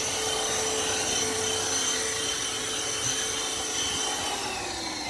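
HOMASY cordless handheld vacuum running with a steady motor whine and rush of suction. Near the end its pitch starts to fall as the motor slows.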